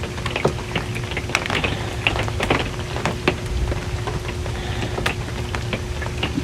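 Raindrops tapping irregularly on an RV's metal roof, heard from inside, some drops sharp and loud, over a low rumble. A faint steady hum runs underneath.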